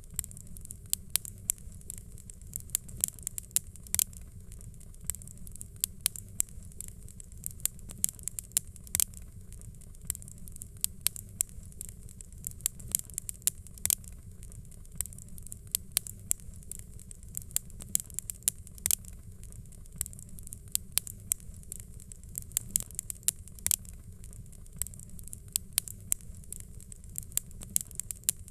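Fireplace fire crackling: frequent sharp, irregular pops and snaps over a steady low rumble of burning.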